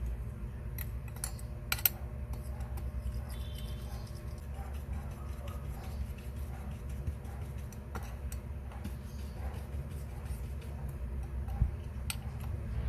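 Scattered light clicks and taps of small metal watchmaker's tools and watch parts, with a few sharper clicks near the start and near the end, over a steady low hum.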